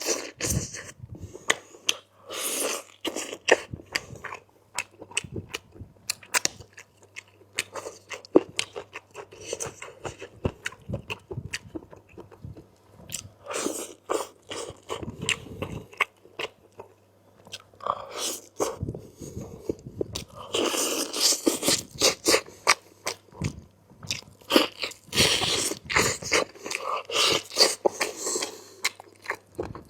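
Close-up eating sounds: wet chewing and biting with crisp crunches, in irregular runs with a quieter spell about halfway through, as a mouthful of chicken curry is eaten. A faint steady electrical hum lies underneath.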